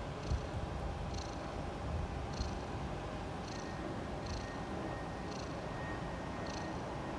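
Orange-and-white domestic cat purring, a steady low rumble, with a faint high chirp repeating about once a second behind it.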